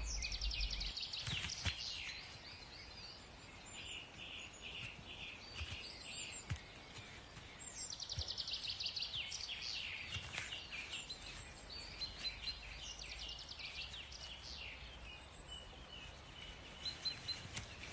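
Songbirds singing, with quick trilled phrases that fall in pitch, repeated every few seconds over a faint outdoor background.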